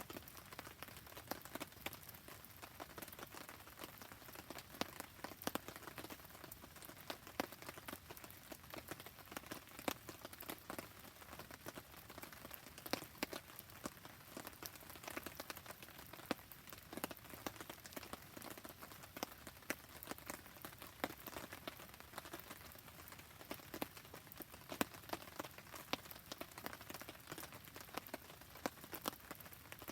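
Rain falling together with a crackling campfire: a steady hiss scattered with many irregular sharp ticks and pops.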